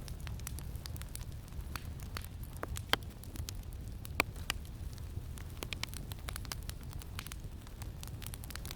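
Campfire crackling: a constant scatter of small wood pops and snaps, with two louder pops about three and four seconds in, over a steady low rumble of wind.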